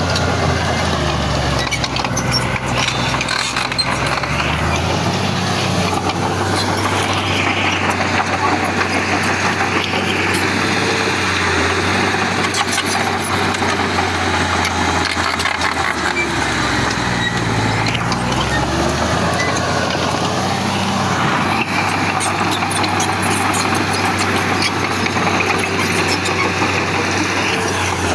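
Heavy diesel engine of earthmoving machinery running continuously, its low note dropping and rising a few times as it works.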